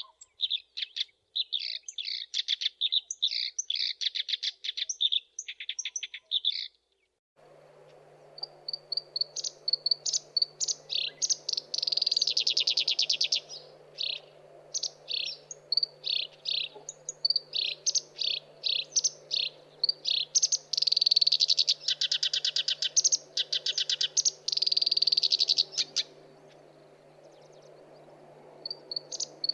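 Black-browed reed warbler singing: fast, scratchy chattering phrases in bursts of a second or two, separated by short pauses. About seven seconds in the sound drops out briefly, and after that a faint steady hum lies under the song.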